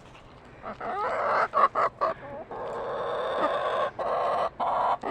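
Chickens clucking and calling, with a run of harsh, drawn-out calls broken by short pauses starting about a second in.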